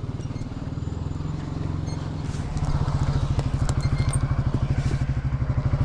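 Coleman UT400 utility vehicle's engine running with a steady, fast pulsing beat, getting louder about two and a half seconds in.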